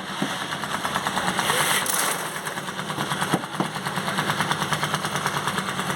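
A small engine running steadily with a fast, even knocking beat, with a short burst of hiss about a second and a half in and a couple of sharper knocks just after the middle.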